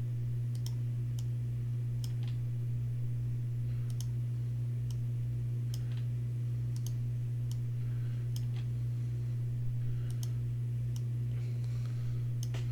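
Scattered sharp clicks of a computer mouse and keyboard, one or two a second at irregular intervals, over a steady low electrical hum.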